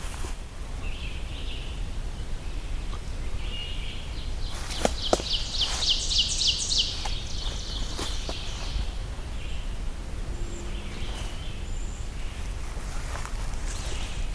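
Songbird singing one fast, high trill of about a dozen notes lasting about two seconds, with faint scattered bird calls and a few light ticks around it.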